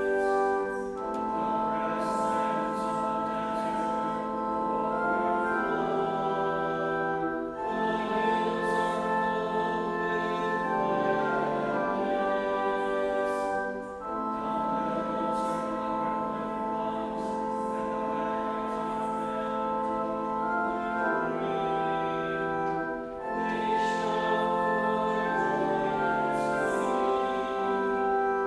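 Organ accompanying a congregation singing a psalm in unison, with held chords in phrases that pause briefly between lines.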